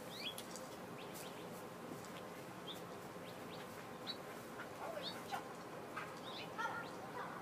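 Small birds chirping: short, high calls and quick falling chirps, scattered every second or so.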